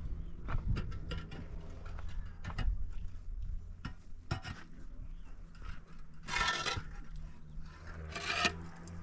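Scattered knocks and clicks, with two longer rasping scrapes about six and eight seconds in.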